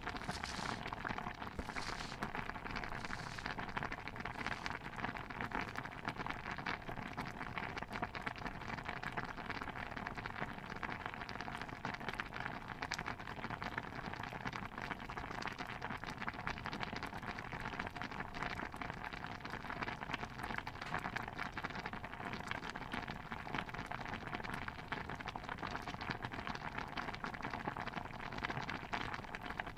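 Ambience of a stew bubbling on the boil: a steady, dense patter of small pops and crackles. A few soft hissy swishes come in the first seconds.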